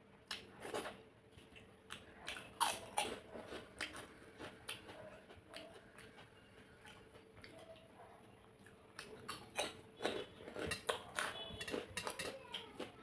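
Close-up eating sounds: a person chewing and biting rice and curry, with sharp crunches and small clicks. They come in two bouts, with a quieter stretch in the middle.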